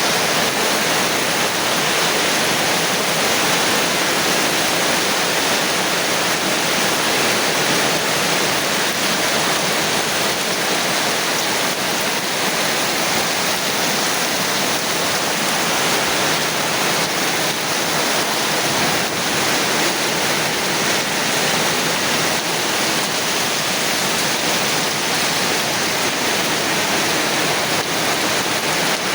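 Rain falling together with wind, a steady, unbroken rushing hiss.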